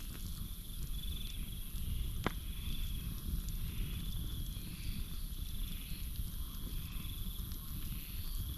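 Campfire burning with a low rumble and scattered faint crackles, one sharp pop about two seconds in. Behind it, crickets keep up a steady high-pitched trill and a pulsing call repeats about once a second.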